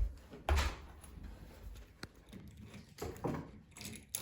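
Handling knocks: a thump about half a second in, then a few light clicks and knocks, with faint murmured voices in between.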